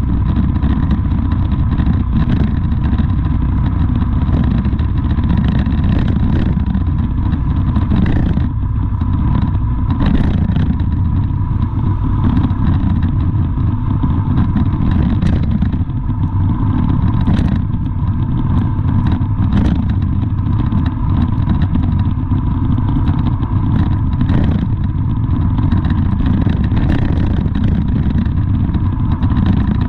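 Vehicle engine and road noise as a loud, steady low rumble with a thin steady whine, broken by a few short clicks or knocks.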